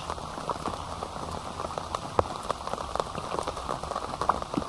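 Heavy rain falling, with many sharp drop hits close by at irregular intervals.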